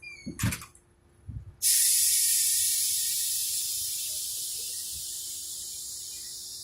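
Two dull low thumps, then a loud hiss that starts suddenly and slowly fades away.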